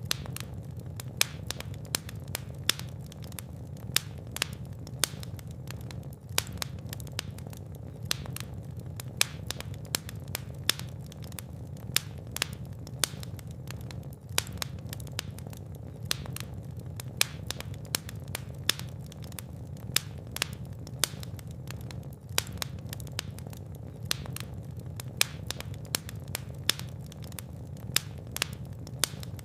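Fire burning in a fireplace, crackling and popping irregularly a few times a second over a steady low rumble of the flames.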